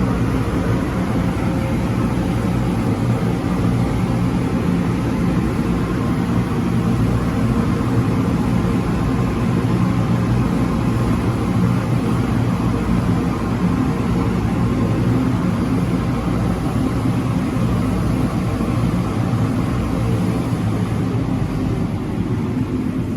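Car wash tunnel machinery running with a loud, steady drone: an even rush of noise over a low hum of several steady tones.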